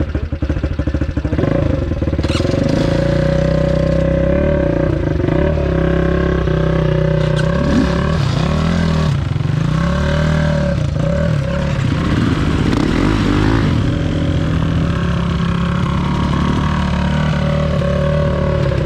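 250 cc enduro motorcycle engine running under way, its pitch rising and falling repeatedly as the throttle is opened and closed.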